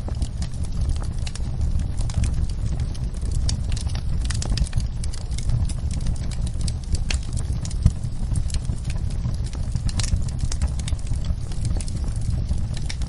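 Wood fire in a fireplace crackling and popping over a steady low rumble of flames, with a sharper pop about eight seconds in.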